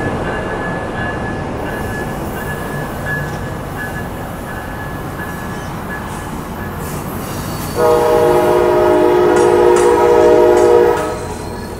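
Amtrak Capitol Corridor passenger train's bilevel cars rolling past with a steady rumble and a faint on-and-off high squeal from the wheels. About eight seconds in, a train horn sounds for about three seconds, loud and steady, then stops.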